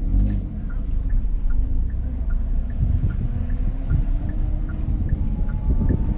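Car engine running at low revs, a steady low rumble with a faint regular tick a little over twice a second. The engine pulses grow stronger near the end.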